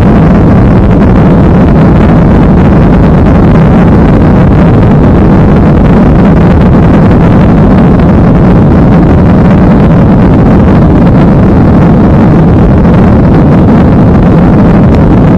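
Loud, steady rush of a Ryanair Boeing 737's jet engines and airflow during takeoff, an unchanging dense roar with a low hum underneath.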